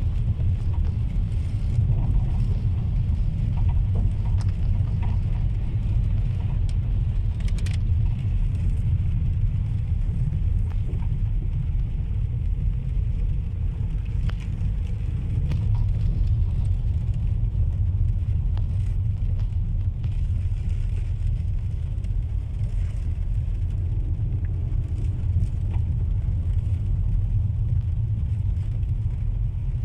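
Steady low rumble of a car driving on wet roads, heard from inside the cabin, with a few faint scattered clicks.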